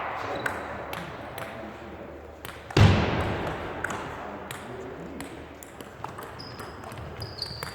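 Table tennis balls clicking off bats and tables in a sports hall. One much louder thud about three seconds in echoes around the hall, and a short high squeak comes near the end.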